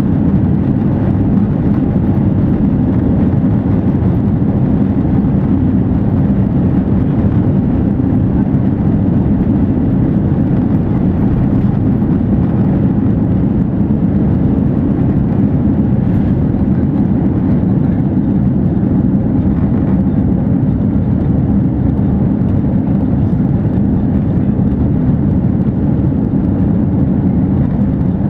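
Airbus A330-300's Rolls-Royce Trent 700 turbofans at high takeoff thrust, heard from inside the passenger cabin: a loud, steady low rumble with no change in level.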